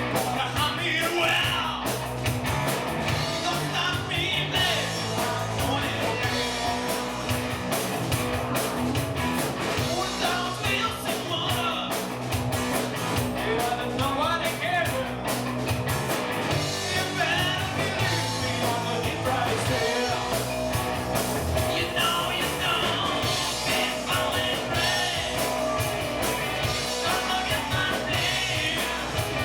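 Rock-and-roll song played by a band with a singer: guitar, bass and drums with a steady beat.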